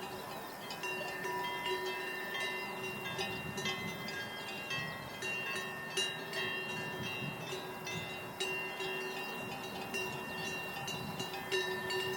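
Many small bells or chimes ringing, struck irregularly at several different pitches so that the tones overlap and keep sounding.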